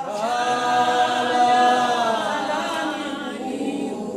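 Unaccompanied singing: a long held note, strong for about three seconds and then fading away.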